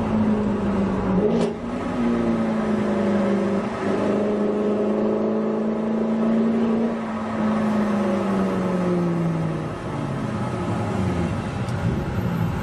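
Supercharged V8 of a BMW Alpina B7 (E65) running through a Kreissieg F1Sound valved exhaust: the engine note rises a little about a second in, holds steady, then drops and fades away from about eight seconds in. A short click sounds near the start.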